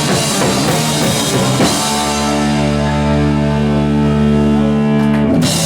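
Live rock band with guitars and drum kit playing, then holding one long sustained chord from about two seconds in, which breaks off a little after five seconds.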